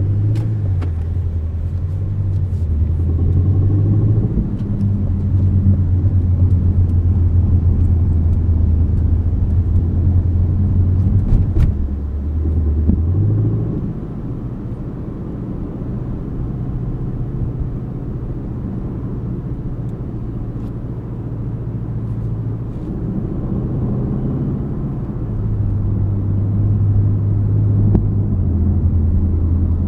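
2025 Aston Martin Vantage's 4.0-litre twin-turbo V8 running under way, its note stepping up and down in pitch with the gears. It is loudest in the first dozen seconds, eases off about 13 seconds in, and builds again near the end.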